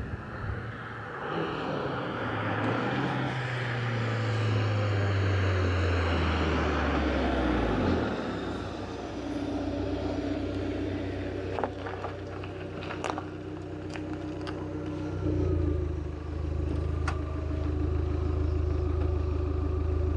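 Abarth 595's turbocharged 1.4-litre four-cylinder engine drives by with tyre noise, its note falling steadily in pitch over several seconds. The car then runs slowly and settles into a steady low idle close by, with a few light clicks.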